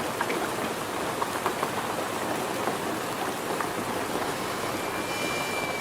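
Steady rain falling, with scattered drips ticking through it.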